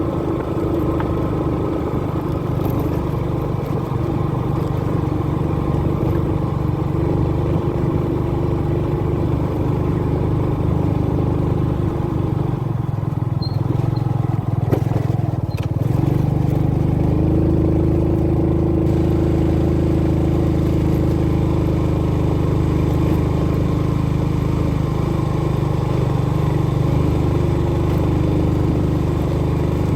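Motorbike engine running steadily on the move, its pitch shifting and getting a little louder about halfway through.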